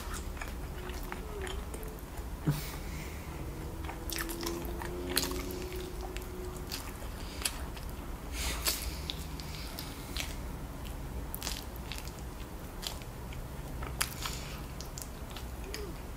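Close-miked eating of a sauce-slathered rotisserie chicken drumstick: wet chewing with scattered sharp clicks of biting as the meat is gnawed off the bone.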